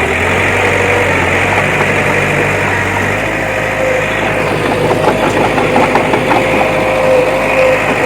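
Diesel engine of heavy earthmoving machinery running steadily, with a low hum whose pitch shifts about three seconds in.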